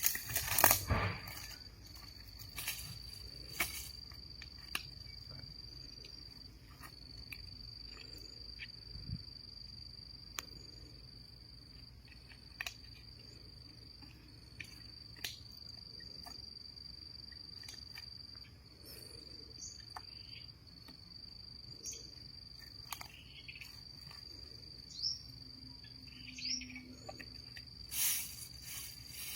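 A steady, high-pitched insect trill, cricket-like, runs on with only brief breaks. Scattered small clicks and rustles sound over it, with louder knocks right at the start and again near the end.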